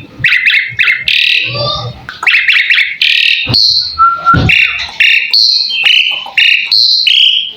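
Pied starling (jalak suren) singing a loud, continuous song: quick chattering phrases at first, then a string of short, high whistled notes at about two a second.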